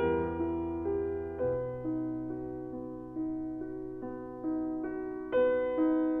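Slow, soft piano music: single sustained notes and chords struck about every half second to a second, each fading before the next.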